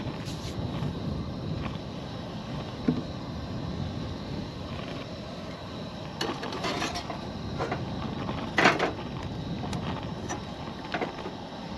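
A steady hiss with scattered clicks and light knocks of cooking utensils and food being handled, the sharpest knock near the end.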